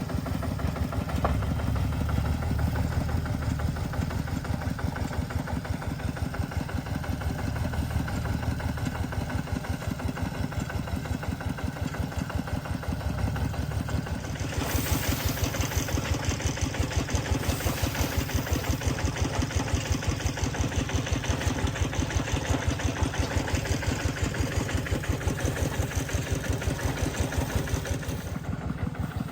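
Engine running steadily with a rapid, even pulse. About halfway through, a harsher hiss and rattle joins in and the pulses grow sharper.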